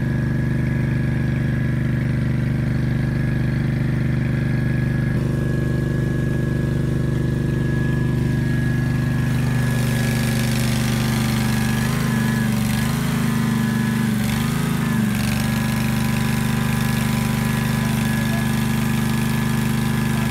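An engine running steadily at constant speed, its pitch dipping briefly and recovering twice a little past the middle.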